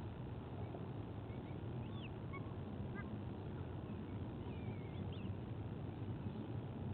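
Faint, short bird calls a few times, about two to three seconds in and again around five seconds in, over a steady low background rumble at the nest camera's microphone.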